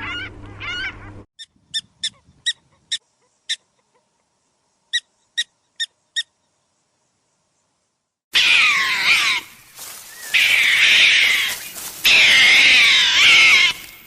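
Animal calls: a few repeated calls at the start, then a string of short, separate chirps, and about eight seconds in a loud, dense chorus of many overlapping calls.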